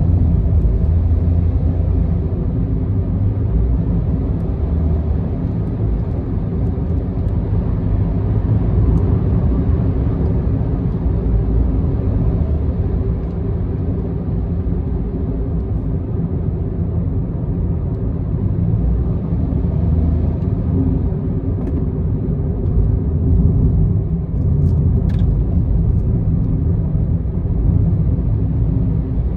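Car driving along an expressway, heard from inside the car: a steady low rumble of road and engine noise.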